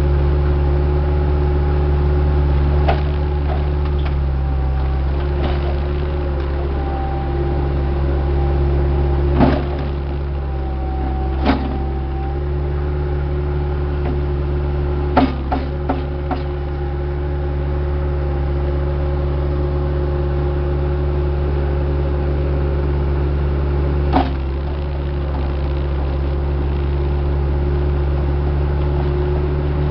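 A heavy-equipment diesel engine runs steadily at a constant speed. Short sharp knocks and clanks come through a few times, a cluster of them about halfway through.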